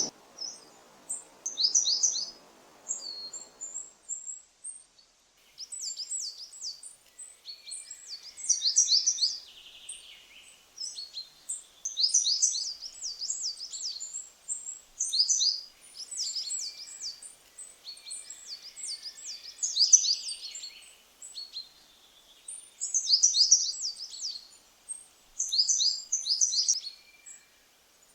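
Coal tit singing: high, thin phrases of quickly repeated downslurred notes, given in short bursts every two to three seconds.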